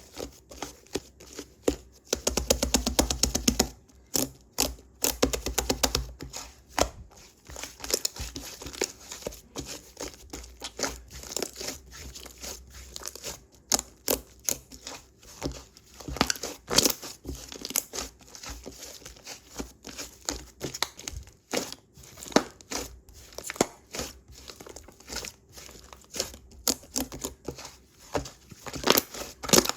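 Slime being squeezed, stretched and pressed by hand, giving irregular sticky pops, clicks and crackles, with a thicker, louder run of squishing about two to four seconds in.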